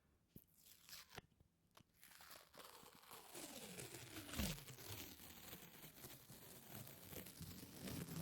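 Something sticky being slowly peeled apart close to the microphone: a few soft clicks, then from about two seconds in a continuous crackling, tearing peel that builds, with a falling squeak about four seconds in.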